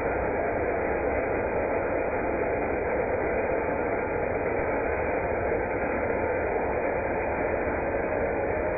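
A power saw cutting into a concrete floor, giving a steady, unbroken noise.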